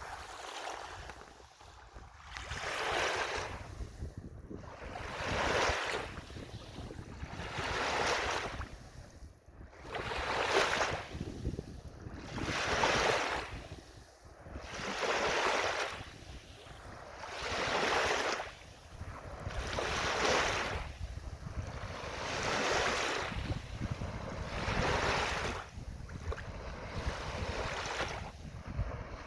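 Waves washing in one after another, a rising and falling rush about every two and a half seconds, with wind rumbling on the microphone.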